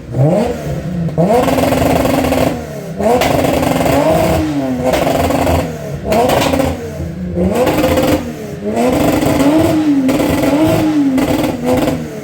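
Car engine revved hard again and again, each rev climbing in pitch and dropping back, with a longer wavering high rev near the end.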